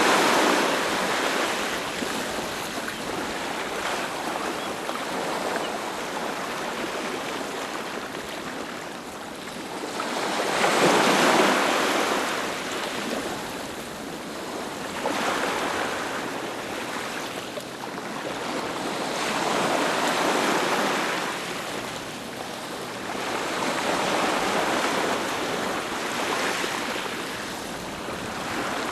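Ocean waves breaking on a beach and washing back, a steady surf that swells and fades every four to five seconds, with the loudest break about eleven seconds in.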